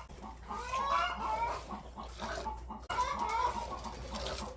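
Chickens clucking, a busy run of short overlapping calls.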